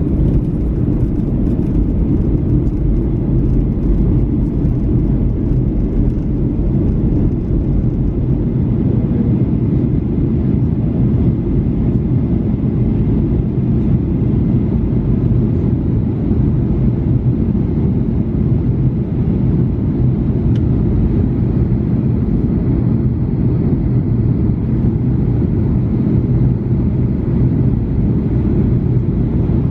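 Airliner noise during the landing approach: a steady low rumble with a faint hum.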